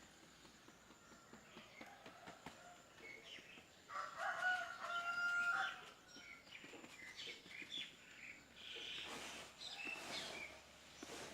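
A rooster crowing once, a pitched call of about two seconds starting about four seconds in, with short high bird chirps scattered around it.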